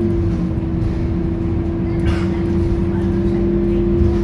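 Engine of a Scania K230UB single-deck bus running steadily, with a constant whine over the low drone.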